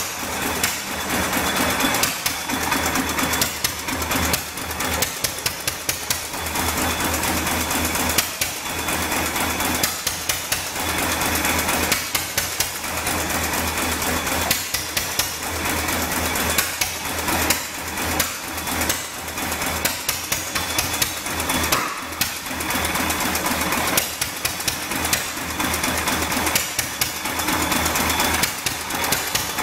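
Fairbanks Morse stationary gas engine running, a steady rapid mechanical clatter of knocks and ticks over a low pulsing exhaust.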